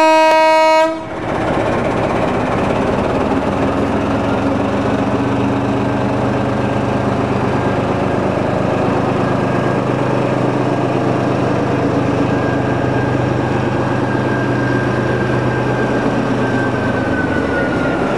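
Diesel locomotive's two-tone horn, its lower note ending about a second in, then the locomotive and its coaches pulling steadily out, the engine running at a steady pitch, with a faint high tone that slides slightly lower near the end.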